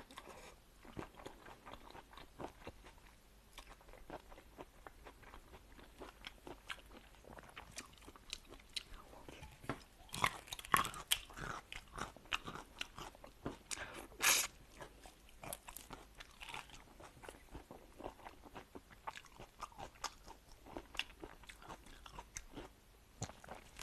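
Close-miked chewing and crunching of food: a run of short, sharp crunches and wet clicks, busiest from about ten to fifteen seconds in, with one louder crunch near the middle.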